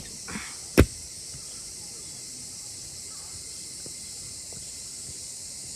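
A steady high-pitched chorus of insects, with one sharp click about a second in.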